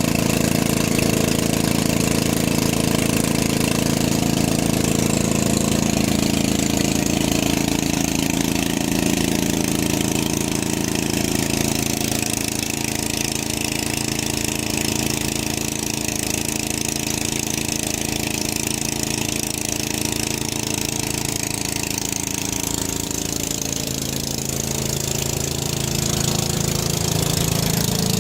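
Engine running steadily with a regular low firing beat, most likely an old tractor engine. It eases slightly in the middle and picks up again near the end.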